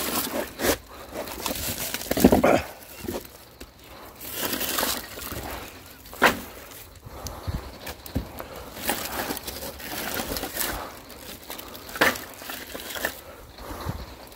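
Irregular sharp knocks and clatter, a handful of loud strikes a few seconds apart, with rustling and scraping between them.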